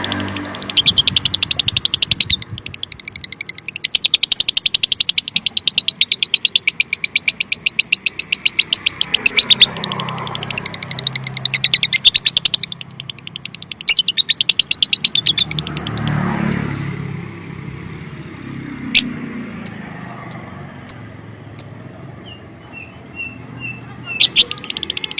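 Lovebird singing in long runs of very rapid, repeated chattering notes, each run lasting a few seconds. About two-thirds of the way through the song stops, leaving a few sharp clicks and faint chirps, and it starts again just before the end.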